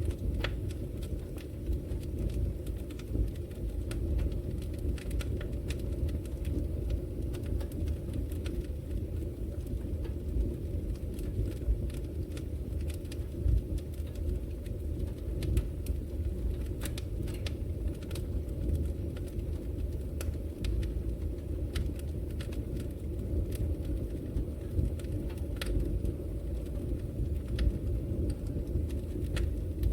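Wood logs burning in a fireplace: a steady low roar of flames with frequent, irregular sharp crackles and pops from the burning wood.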